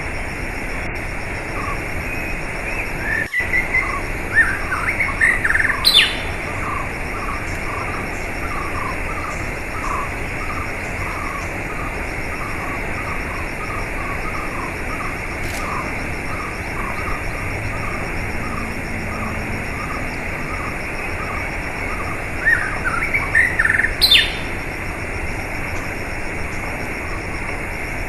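Steady rushing water with a small bird chirping over it. Two bursts of quick rising chirps come about four seconds in and again near the end, with a run of short, evenly repeated notes, about two a second, in between.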